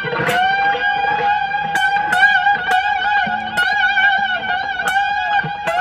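Fender Stratocaster electric guitar on a clean amp setting, holding one high note with a wavering vibrato and picked again several times as it sustains.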